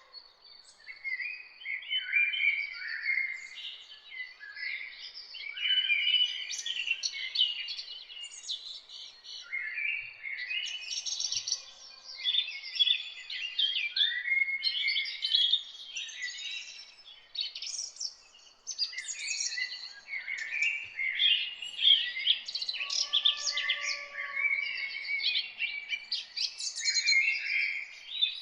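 Several songbirds singing and chirping at once, a continuous chorus of quick overlapping chirps and trills, with a few lower whistled notes now and then.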